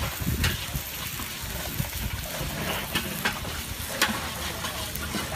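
Food sizzling on a hot pan at a street stall, a steady hiss broken by a few sharp clicks of a utensil.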